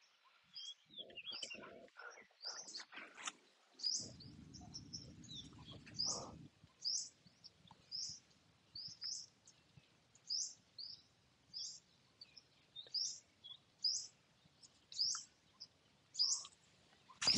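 A bird repeating a short high chirp about once or twice a second, with a low rumbling noise for a couple of seconds about four seconds in. Right at the end, the sharp crack of a driver striking a golf ball off the tee, the loudest sound.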